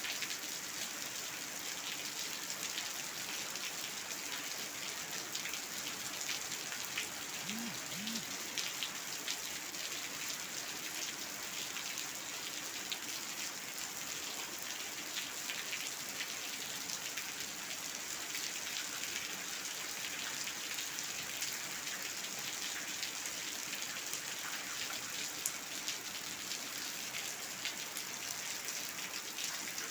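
Steady rain falling onto a hard floor, a constant hiss with many separate drops splashing and ticking through it.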